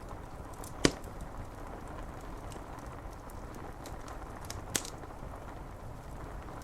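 Wood fire crackling, with two sharp pops (the first, about a second in, the loudest) and faint ticks over a steady hiss of rain on window glass.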